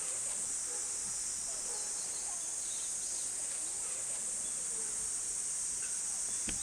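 Steady high-pitched insect chorus of summer, with a few faint bird calls.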